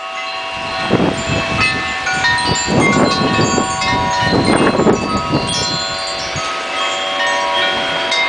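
Wind chimes ringing and jangling nonstop in storm-force wind, many notes overlapping. Gusts of wind rush over the microphone about one, three and five seconds in.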